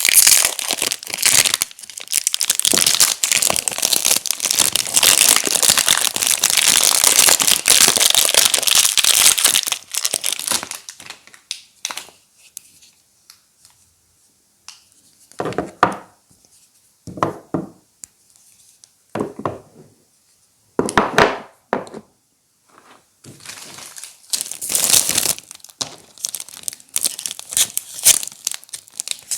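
Soap packaging being crinkled and torn open by hand. Dense, continuous crinkling for about the first ten seconds, then a few separate short rustles with quiet gaps, and steadier crinkling again from about two-thirds of the way in.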